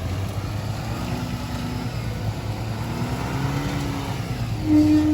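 Off-road 4x4 engine running and revving, a steady low hum with the pitch rising slowly in places. A brief steady tone near the end is the loudest sound.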